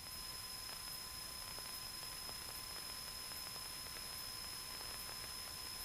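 Faint steady hiss with thin, steady high tones running through it: the background noise of an air traffic control radio feed between transmissions.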